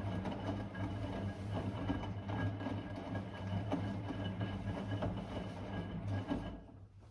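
Blomberg WA391 front-loading washing machine running a 90 °C boil wash: the motor hums as it turns the drum, with a steady rumble of tumbling laundry, until the drum stops about six and a half seconds in.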